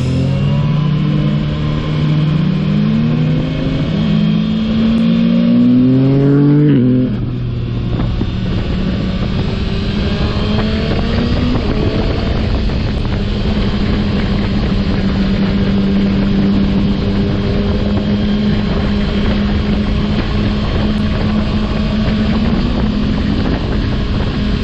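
Yamaha MT-09 SP's three-cylinder engine through a Yoshimura AT2 full exhaust, revving up through several gears in a row, each upshift dropping the pitch. About seven seconds in the throttle closes, and the bike settles into a steady cruise with wind rushing past.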